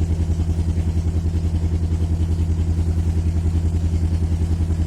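A narrowboat's diesel engine running steadily, a low throb pulsing about eight times a second.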